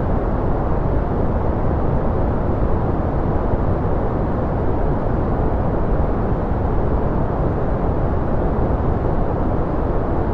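Continuous, unchanging noise from a white-noise relaxation track, with most of its weight low and in the middle range, so it sounds deep and muffled rather than hissy.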